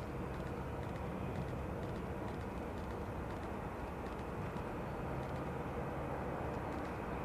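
Jet engine noise from a U.S. Air Force VC-25A (Boeing 747) with four turbofans: a steady rumble and hiss with a faint steady whine, neither rising nor falling.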